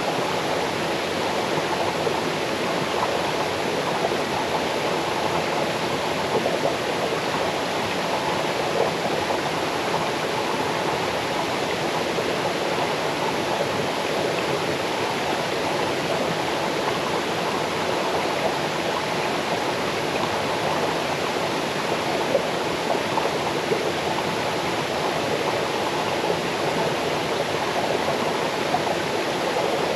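Small waterfall cascading over stones into a stream: a steady, dense rush of falling water.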